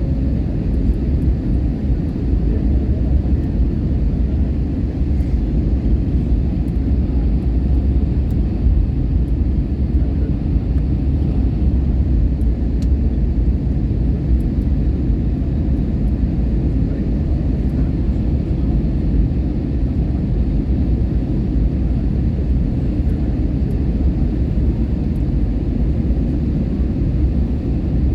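Airliner engines and rushing air making a steady, deep rumble that holds even throughout.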